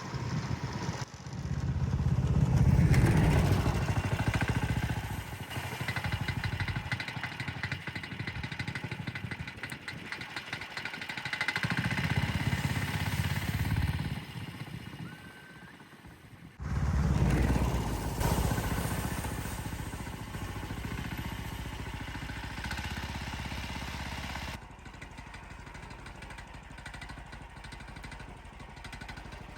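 A motor vehicle engine running and revving, rising and falling in loudness, with sudden changes between shots.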